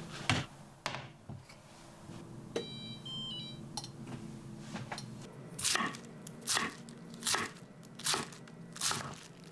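Crisp crunching sounds, coming at an even pace of roughly one every 0.8 seconds through the second half, with a short run of high beeping tones a few seconds in.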